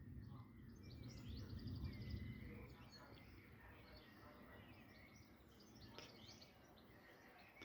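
Near silence with faint bird chirps. A faint low rumble fades out in the first two or three seconds.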